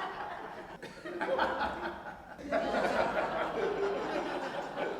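Audience laughing together. The laughter swells about a second in, dips briefly, then rises again louder about halfway through.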